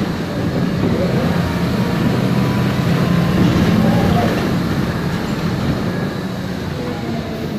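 Onboard a MAN Lion's Classic city bus: its MAN E2876 CNG engine running with a steady drone under road and cabin noise.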